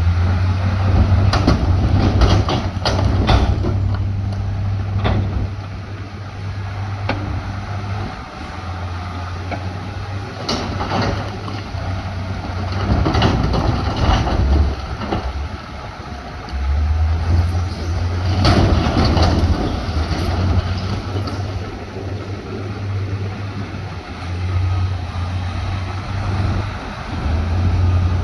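Diesel engine of heavy earthmoving machinery running with a low drone that drops away and comes back several times. Bursts of clanking and rattling come with it, about four times.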